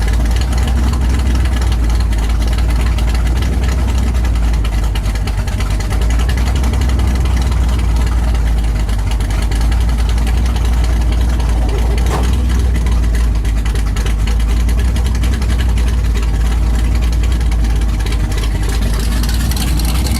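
Mud-bogging truck's engine running steadily and loudly, with a strong low drone and a noisy haze over it.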